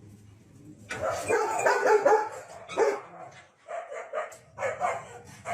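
A dog barking in a quick run of barks that starts about a second in, followed by a few more separate barks.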